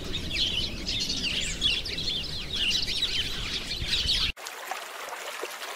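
Many small birds chirping at once, a dense chatter of short, high, downward-sweeping chirps. It cuts off abruptly a little past four seconds in, giving way to a quieter background with a few faint chirps.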